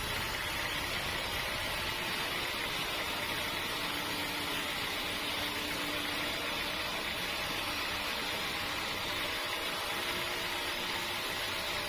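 Steady, even machine noise, running without change and with no cuts or strikes.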